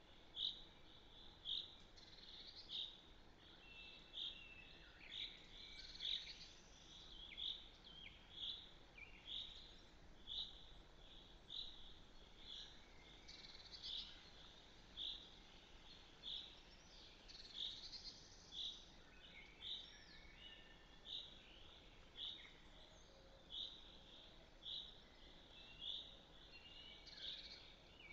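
Faint bird sounds: one bird repeats a short, high call about every three-quarters of a second, while other birds sing in the background.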